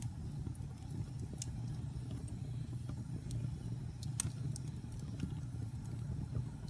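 Fire burning in a fireplace: a steady low rumble with scattered sharp crackles and pops, the sharpest about four seconds in.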